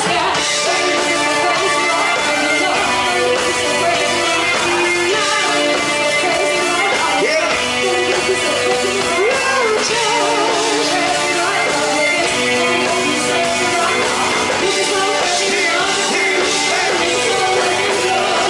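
A band playing an upbeat song with some singing.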